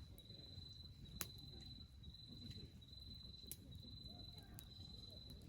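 Crickets trilling at a high pitch in repeated stretches just under a second long. A few sharp pops from the wood fire crackling come through, the strongest about a second in.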